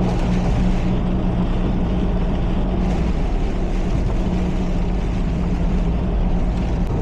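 Steady cabin noise of a car driving at highway speed on a wet road: a low engine and tyre drone under a constant hiss of water spray.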